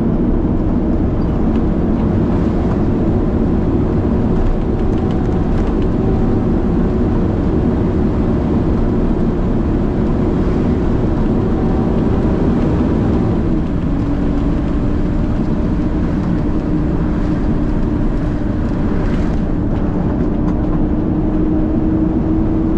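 Heavy diesel garbage truck's engine running under way, heard from inside the cab as a steady low drone. About two-thirds of the way through, the engine note drops in pitch and then slowly climbs again.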